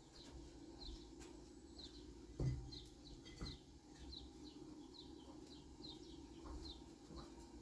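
Small birds chirping steadily, short high notes about two or three a second. A dull knock about two and a half seconds in, the loudest moment, and a softer one a second later.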